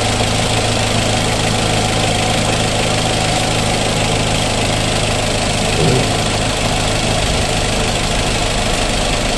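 Perodua Myvi's engine idling steadily with the radiator cap off, running so the fresh coolant circulates into the block and the level in the filler neck drops as air bleeds out.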